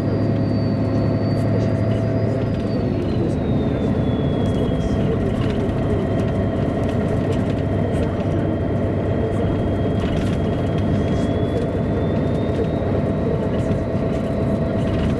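MAN A23 articulated city bus driving, heard from inside: a steady diesel engine and road drone, with a thin high whine that slowly drops in pitch over the first few seconds and creeps back up near the end.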